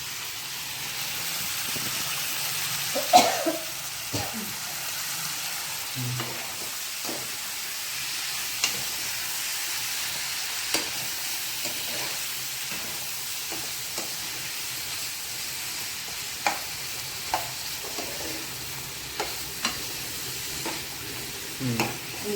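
Chicken pieces frying in oil in a pan with a steady sizzle, while a spatula stirs them and clicks and scrapes against the pan every second or two.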